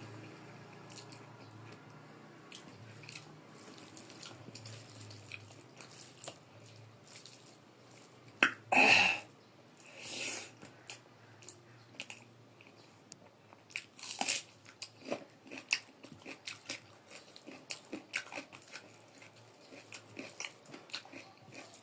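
A person chewing mouthfuls of rice and curry, a steady run of small wet clicks, with a short loud sound about nine seconds in and fainter ones about a second later and near fourteen seconds.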